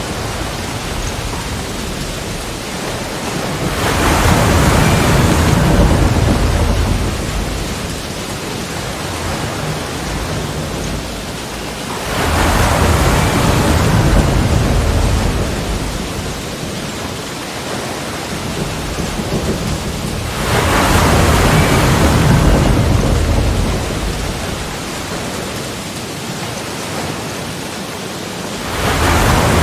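Sea waves breaking on the shore, with four surges about eight seconds apart. Each one builds quickly and washes away into a steady hiss of surf.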